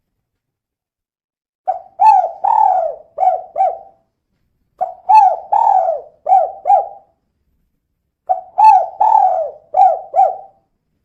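Female spotted dove (tekukur) cooing in three phrases of about five quick, low coos each, a second or so apart.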